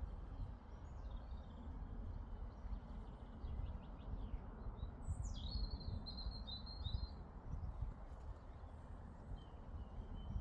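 Meadow ambience: a low, uneven rumble of breeze on the microphone, with faint bird notes and a songbird's short warbling phrase about halfway through.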